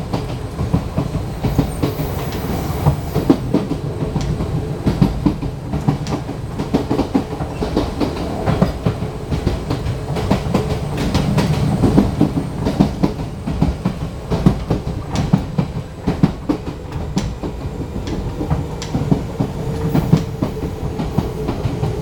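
Fujikyu 1000 series electric train running: a steady low rumble with the wheels clicking irregularly over rail joints, and a faint steady tone near the end.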